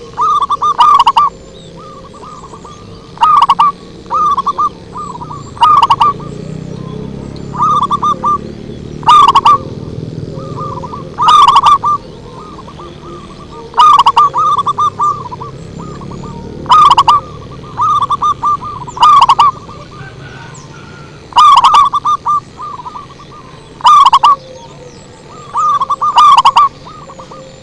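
Zebra dove (perkutut) cooing: loud, rhythmic phrases of rapid notes, each about a second long, repeated every two to three seconds. This is a lure call meant to draw other zebra doves.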